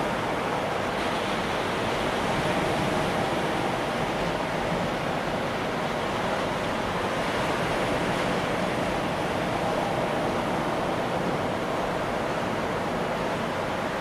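Atlantic Ocean surf breaking and washing in a steady, continuous rush, swelling gently a couple of times.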